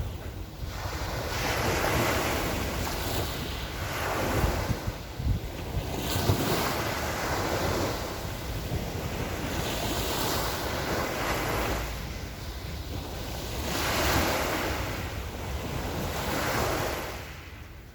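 Small Black Sea waves washing onto the shore in repeated swells a few seconds apart, with wind buffeting the microphone. The sound fades out near the end.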